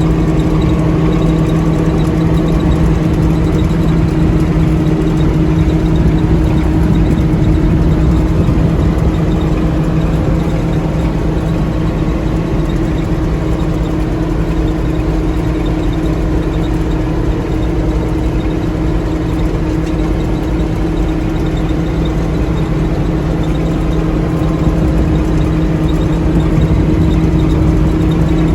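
Combine harvester's diesel engine running steadily at constant speed, with a continuous even drone and no change in pitch.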